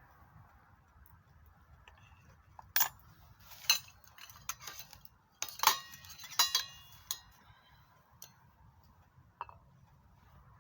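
Cookware and utensils clinking and knocking together in a run of sharp strikes, some briefly ringing, from about three to seven seconds in, with a single tick near the end.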